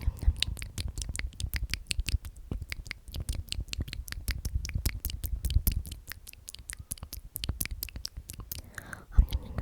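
A dense run of crisp, crackly clicks and light scratching right at the microphone, several a second, over a soft low rumble.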